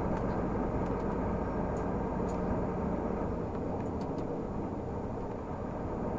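Renault Magnum 480 truck's diesel engine running steadily while driving, with road noise. The low engine note drops away about halfway through.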